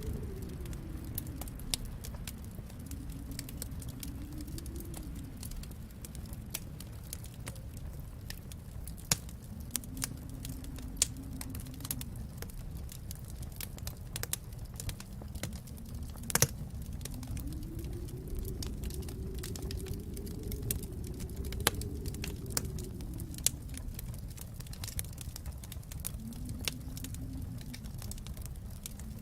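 Wood fire in a fireplace crackling, with irregular sharp pops, the loudest about sixteen seconds in, over a steady low rumble that slowly swells and fades.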